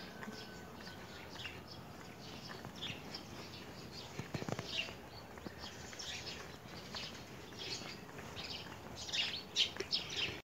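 Small birds chirping in short, scattered calls over a faint steady outdoor hiss, the chirps coming thicker near the end.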